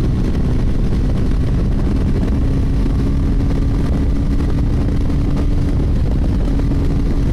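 TVS Ronin 225's single-cylinder engine held at high revs under full throttle in fourth gear, a steady drone whose pitch barely rises, with wind rush over the microphone. The engine is near the top of its rev range, where its power tapers off.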